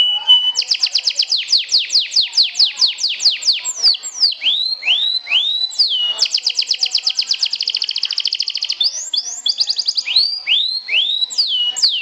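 Domestic canary singing: fast trills of whistled notes that sweep downward, about eight a second, alternating with slower, curved, drawn-out notes and a steady rattling trill.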